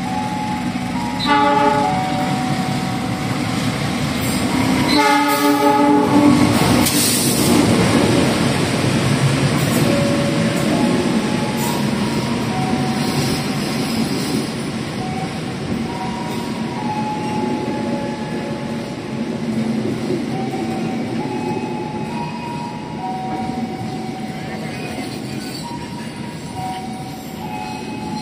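Diesel locomotive sounding its horn twice, a short blast about a second in and a longer one a few seconds later, then a train rumbling past with its wheels squealing at times, the rumble slowly fading.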